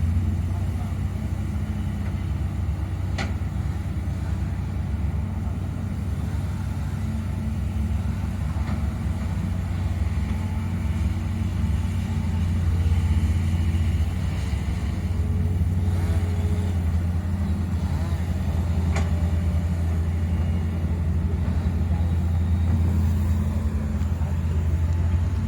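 A heavy machine's engine, such as an excavator's, running steadily as a low drone, with a couple of brief sharp clicks.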